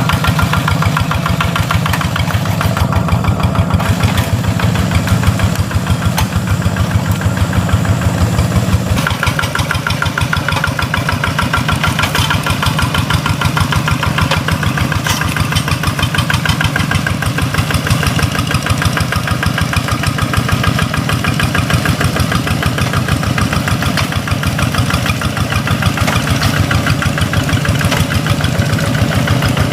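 Tractor engine running steadily with a fast, even beat of firing pulses; its note shifts about nine seconds in and then holds.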